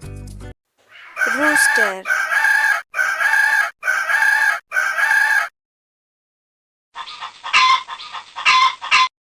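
Rooster calls played as a sound clip: a run of short, evenly repeated calls about a second apart, then after a pause a crow of about two seconds.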